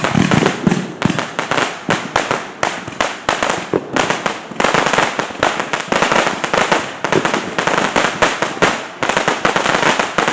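Fireworks going off: a dense, irregular string of sharp cracks and pops, many a second, with a crackling hiss between them.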